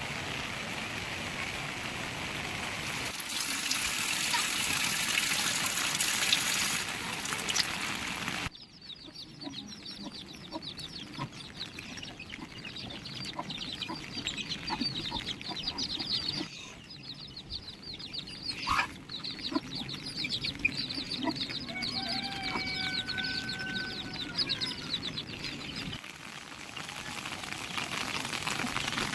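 A steady rushing noise for the first eight seconds, then, after a sudden cut, chickens clucking amid many quick, high chirps, with a few longer held calls near the end.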